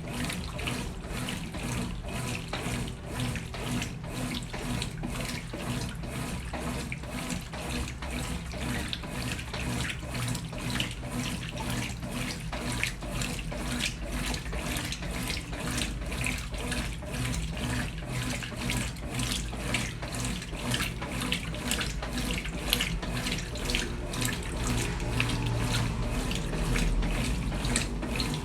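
Brastemp Ative! 11 kg washing machine with water rushing and splashing steadily into its tub, typical of the fill at the start of a wash, over a steady low hum.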